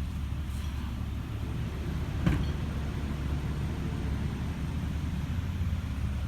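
Recycling truck's engine running with a steady low rumble, with a single sharp knock a little over two seconds in.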